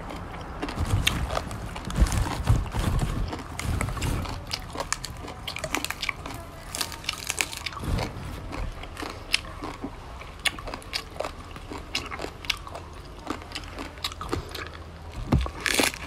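Close-miked chewing and crunching of raw leafy greens and green papaya salad, full of sharp crisp clicks, with a louder crunch near the end as a fresh bite of greens is taken.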